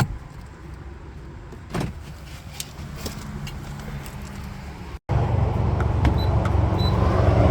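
Minivan driving, heard from inside the cabin: a steady low engine and road rumble, which becomes noticeably louder after a cut about five seconds in.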